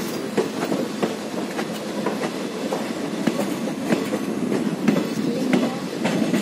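Passenger train running at speed on a curve, heard from one of its own coaches: a steady rumble with wheels clattering irregularly over the rail joints.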